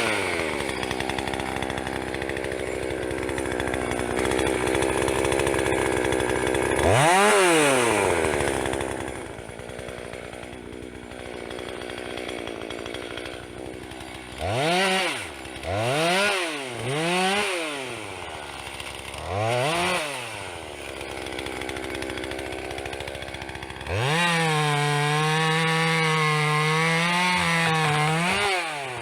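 Two-stroke petrol chainsaw idling and revved: one long rev about seven seconds in, then several short throttle blips around the middle. It is then held at high revs with a wavering pitch for the last five seconds.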